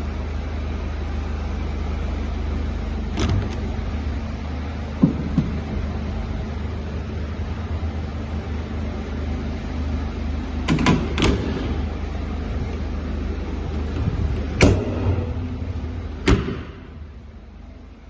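Mercedes-Benz Sprinter 314 CDI diesel van running with a steady low rumble, with several sharp clicks and knocks. The loudest knocks come about 11 and 15 seconds in. After a last knock near the end the running sound drops away sharply.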